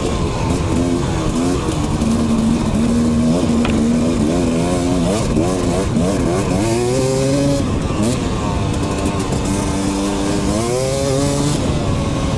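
Dirt bike engine running as the bike rides along, its revs rising and falling repeatedly.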